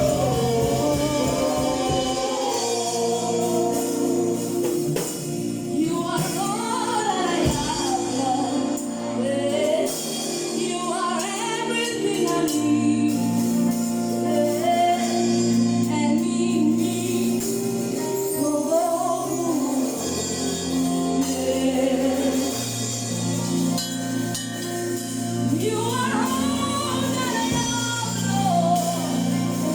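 A choir singing with instrumental accompaniment. Long low bass notes hold under melodic vocal lines that bend and glide in pitch.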